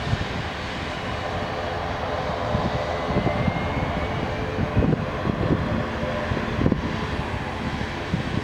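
Jet airliner engines running steadily, a continuous hum with a faint slowly rising whine in it.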